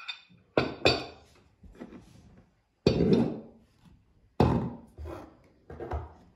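Kitchenware being handled and set down on a counter: a couple of quick knocks about half a second in, heavier thuds that ring briefly around three and four and a half seconds in, and lighter knocks near the end.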